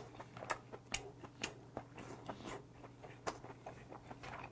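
Faint, close-up chewing of a mouthful of boiled monkfish: a string of soft, irregular mouth clicks.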